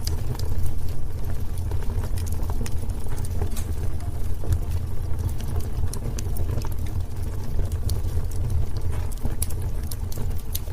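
Wood fire burning in a fireplace: a steady low rumble of flames with many irregular crackles and sharp pops from the burning wood.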